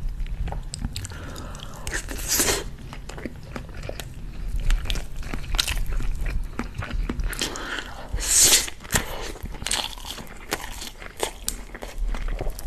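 Close-miked chewing and biting of chicken and rice (Saudi kabsa), with many small mouth clicks. Two louder bursts of chewing come about two and a half seconds in and again around eight and a half seconds.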